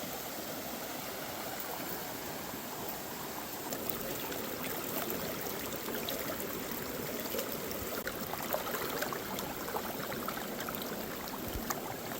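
Valley stream rushing steadily, with scattered short splashes and clicks from about four seconds in.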